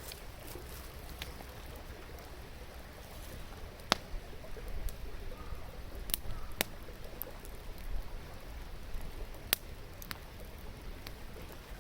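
Wood campfire crackling, with scattered small ticks and four sharp pops, the loudest about four seconds in, over a steady wash of river water.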